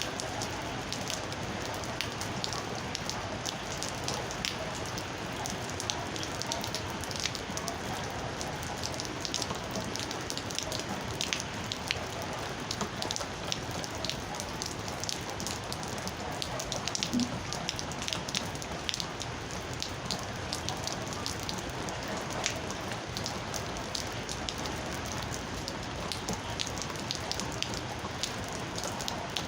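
Steady rain falling, with many sharp, separate drop ticks spattering through the steady hiss.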